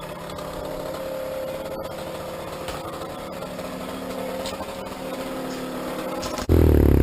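A small engine running at a steady idle. About six and a half seconds in, loud electronic music cuts in suddenly over it.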